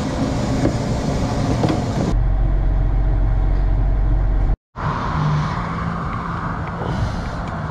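Large diesel farm tractor engine running. The sound changes abruptly twice, first to a deep low rumble for a couple of seconds, then to a steadier low hum.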